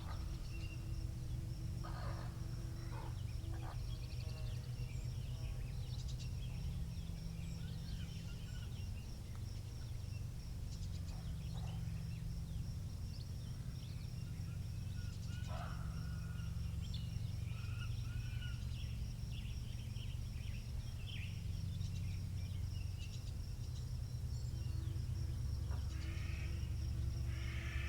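Wind rumbling steadily on the microphone, with scattered short bird calls over it and a faint thin high tone throughout.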